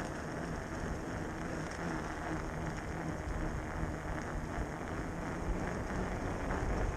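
Bafang 1000 W electric bike motor running steadily under pedal assist, a faint even hum beneath wind noise on the microphone.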